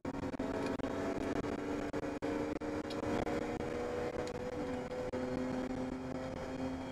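BMW E30 325i's 2.5-litre straight-six engine running hard in a race, heard from inside the cabin; its note holds steady, with a brief break and change of pitch about four and a half seconds in.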